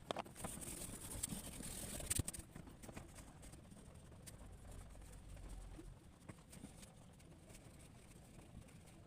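A drawing tool scratching on paper in a rough hiss for about two seconds, ending in two sharp clicks, then faint scattered taps and ticks.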